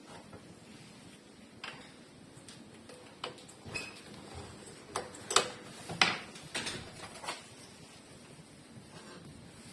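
Scattered sharp clicks and knocks at an uneven pace, the loudest two about five and six seconds in, with a quiet background between them.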